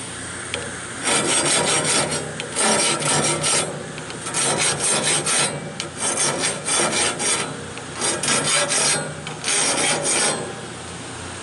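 A file rasping across the teeth of a sawmill band blade during sharpening, in six spells of about a second each, over a faint steady low hum.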